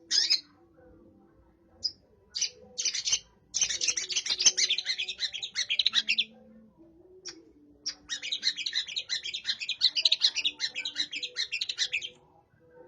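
Long-tailed shrike (cendet) singing: a few short chirps, then two long runs of rapid, chattering high notes with a pause between, its song filled with mimicked sparrow chirps.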